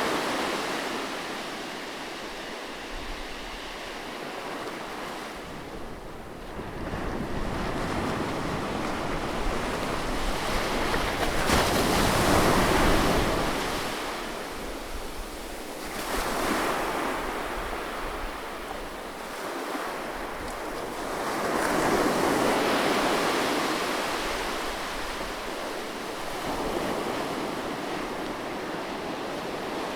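Sea waves breaking and washing in, the surf swelling and ebbing in slow surges, loudest about twelve seconds in and again a little past twenty seconds.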